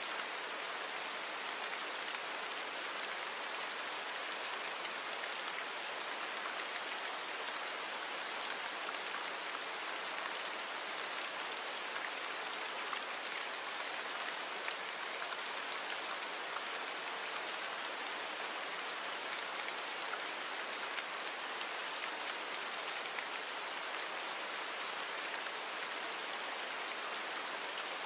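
Steady rain, a dense patter of drops falling on a surface, even and unchanging throughout.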